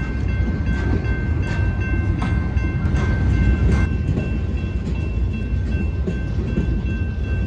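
A freight train of loaded flatcars rolls past close by with a heavy, steady rumble. Its wheels clack sharply over rail joints a few times in the first half, and a thin, steady high ringing tone sits over the noise throughout.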